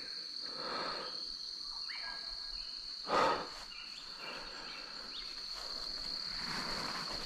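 A steady, high-pitched insect drone with a faint outdoor background, broken once about three seconds in by a short, louder sound.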